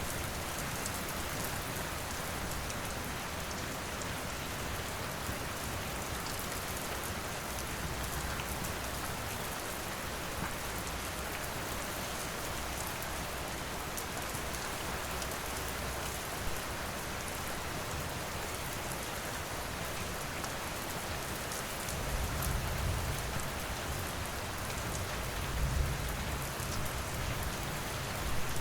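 Steady rain falling, with a fire crackling in small sharp clicks under it. Two low rumbles swell up in the last several seconds.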